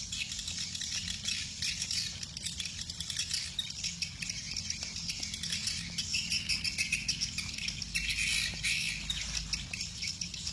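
Many swiftlets chirping together in a dense, continuous high twittering, over a low steady rumble.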